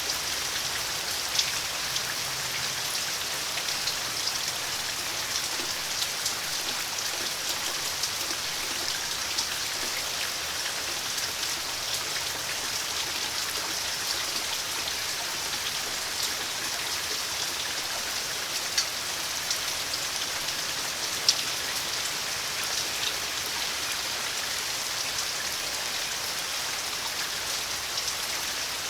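Steady rain falling, an even hiss with a few sharper drops striking close by, the loudest about 21 seconds in.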